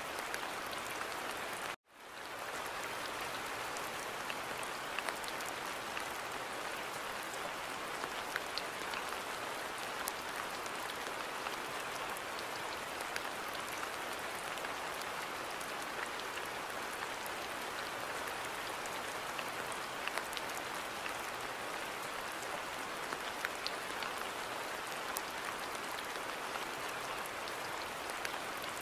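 Steady rain falling in a garden, an even patter with individual drops ticking here and there. The sound cuts out briefly about two seconds in, then fades straight back.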